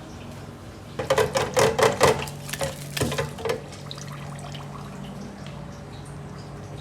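A quick run of about a dozen clattering knocks of metal kitchenware, pans or utensils striking each other, lasting about two and a half seconds, over a steady low kitchen hum.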